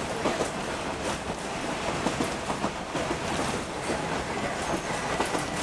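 Running noise of a passenger train heard from inside the carriage: a steady rumble and hiss with many irregular knocks and rattles.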